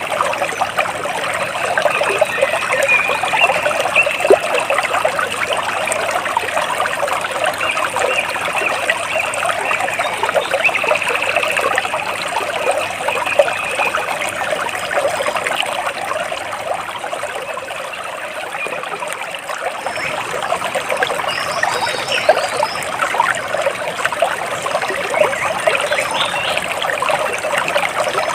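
Water splashing and trickling steadily, with a few faint high bird chirps about two-thirds of the way through.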